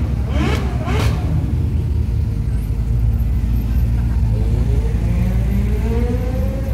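Ferrari sports car engines rumbling at low speed, with two brief sharp noises in the first second. About four seconds in, one engine's note rises steadily as the car accelerates.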